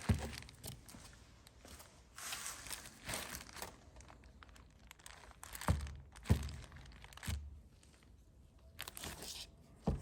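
Crinkling and rustling of plastic wrapping while the new and old vacuum pumps are handled, with three dull thunks between about six and seven and a half seconds in as a part is set down or knocked against the bench.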